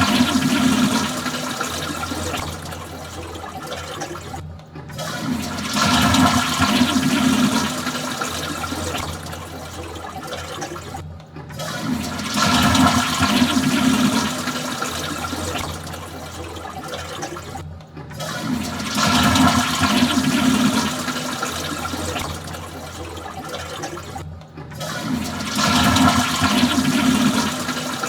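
Toilet flushing over and over, about every six and a half seconds. Each flush opens with a loud rush of water that eases into a quieter steady run, then cuts off suddenly just before the next one starts.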